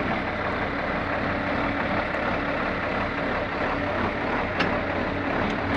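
John Deere 4630 tractor's six-cylinder turbocharged diesel engine running steadily at idle, with a short click about four and a half seconds in.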